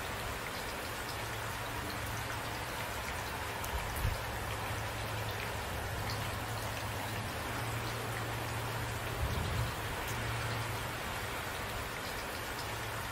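Steady rain falling, with individual drops ticking on a surface, over a low steady hum. Two brief low thumps come about four seconds in and again near the ten-second mark.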